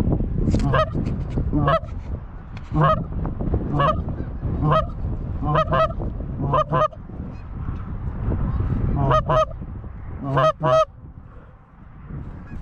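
Loud goose honks, single and doubled notes coming about a second apart with a pause midway, over a steady low rumble.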